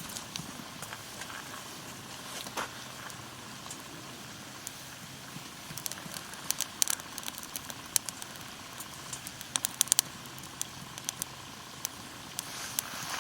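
Wood campfire crackling and popping over a steady hiss, with a busy run of sharp pops in the middle.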